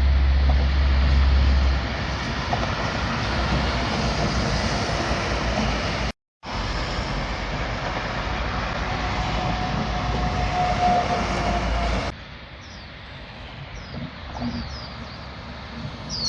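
Heavy trucks passing on a highway: engine and tyre noise with a deep low rumble, broken by a short silent cut about six seconds in. After about twelve seconds it drops to quieter, more distant traffic with birds chirping.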